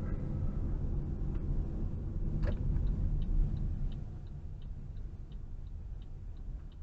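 Low road and engine rumble inside a 2018 Toyota RAV4's cabin, picked up by the dashcam's microphone. About two and a half seconds in, the turn-signal indicator starts ticking steadily, about three ticks a second, while the rumble eases.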